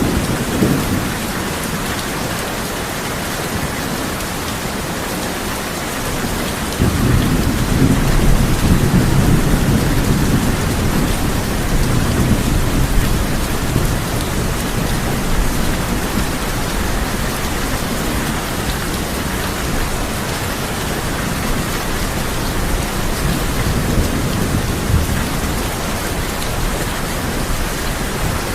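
Heavy steady rain drumming on a tin roof, with thunder: a low rumble comes in suddenly about seven seconds in and rolls on for several seconds, slowly fading, with weaker rumbles later.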